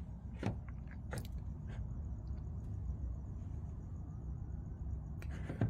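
A few light metallic clicks and knocks from sheet metal on the car's fender being worked by hand, over a steady low rumble.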